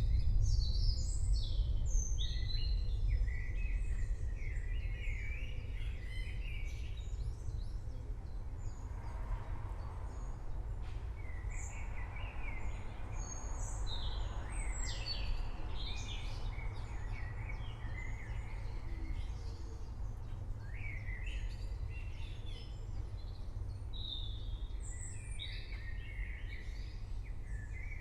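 Several songbirds chirping and warbling in a forest, with a low rumble of distant thunder underneath that is loudest at the start and dies away over the first few seconds.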